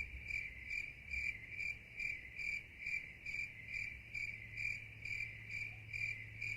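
A cricket chirping faintly and steadily, about two even chirps a second, over a low steady hum.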